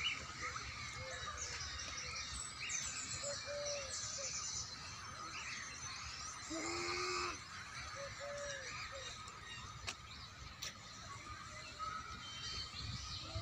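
Birds calling outdoors: small birds chirping, with repeated short calls and one longer, louder call about seven seconds in.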